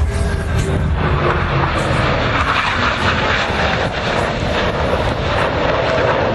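Airplane engine noise from an aircraft flying past, a steady loud rush with a faint tone gliding slowly in pitch.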